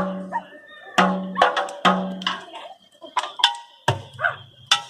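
Street percussion played on instruments made from recycled materials: separate drum-like strikes, three ringing hits about a second apart, then a deeper hit and a sharp crack near the end.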